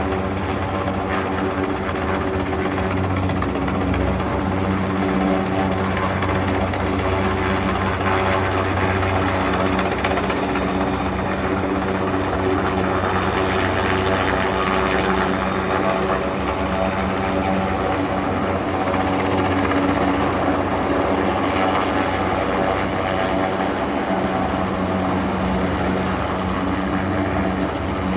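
Helicopter hovering close by, its rotor and turbine engine running in a steady, loud drone with a low pulsing hum.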